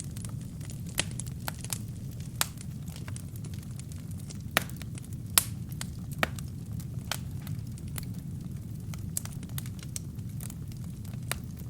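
Wood fire burning in a fireplace: a steady low rumble of flame with irregular sharp crackles and pops from the burning wood, the loudest two a little under a second apart about halfway through.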